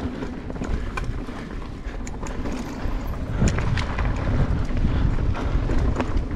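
Wind rushing over the microphone and mountain bike tyres rolling fast on a dirt trail, with scattered clicks and rattles from the bike over rough ground, growing louder about halfway through.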